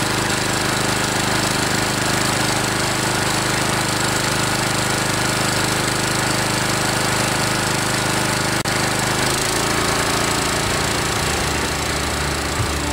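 Kawasaki FC150V 6.75 hp single-cylinder OHV engine on a walk-behind string trimmer running steadily under test after its carburetor was cleaned and the plugged main jet cleared. The engine speed changes about nine seconds in.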